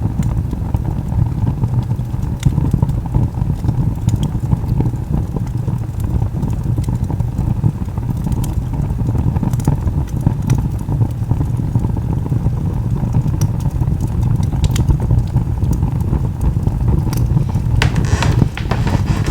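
Wood log fire burning: a steady low rumble with scattered sharp crackles and pops, a burst of louder pops near the end.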